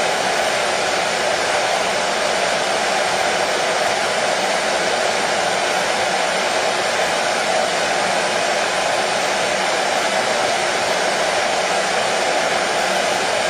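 Hair dryer running steadily at a constant speed, a continuous airy whoosh with its strongest part in the lower middle range.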